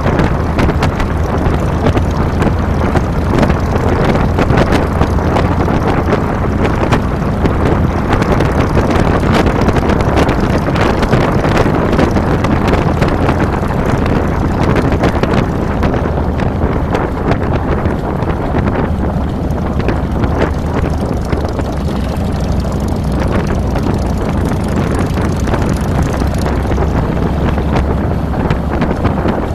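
Harley-Davidson Fat Boy's Twin Cam V-twin running steadily while riding, with wind rushing over the handlebar-mounted microphone. The wind hiss eases a little past the halfway point.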